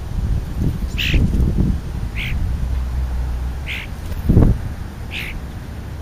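A bird giving four short, scratchy calls spaced a second or so apart, with a dull thump just after the third call.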